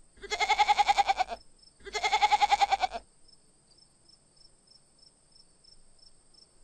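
A goat bleating twice, each bleat about a second long with a fast quavering pulse.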